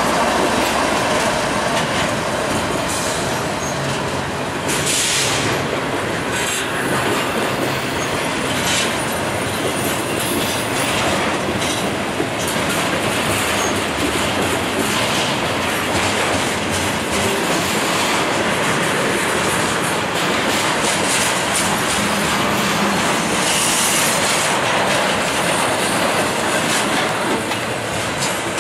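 BNSF freight train passing close on the adjacent track, first its diesel locomotives and then double-stack intermodal well cars, a steady loud rumble and clatter of steel wheels on rail. Brief bursts of high-pitched wheel noise come about five seconds in and again near the end.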